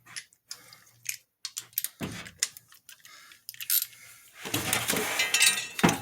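Metal hand tools and sockets clinking and clicking as a spark plug socket is taken off and swapped for a shorter one. The clinks are scattered at first, then turn to a dense jangling rattle of metal on metal for the last second and a half or so.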